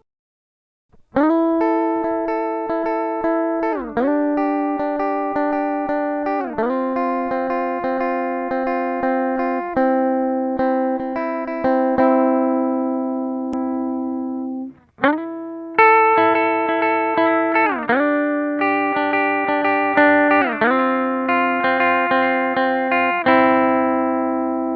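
Electric guitar played through an Átik Nuuk analog effects pedal, picking a slow arpeggio of ringing notes. At several chord changes the pitch swoops down and back up. The playing stops briefly about halfway through, then starts again.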